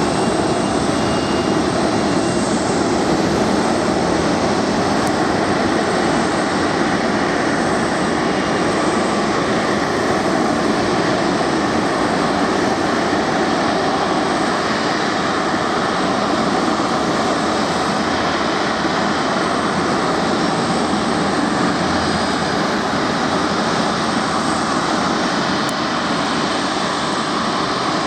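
Airbus A330 jet engines running at low taxi thrust: a steady, even roar with a faint high whine, holding level throughout.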